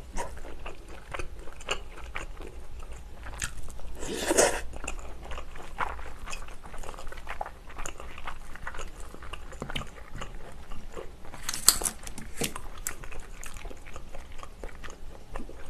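Close-miked eating sounds of a person eating rice mixed with Korean side dishes: chewing and biting, with scattered short clicks of a spoon and chopsticks in a bowl.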